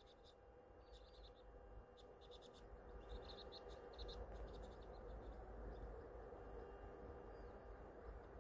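Faint high chirping of small birds in several quick runs over the first half, over a low steady rumble.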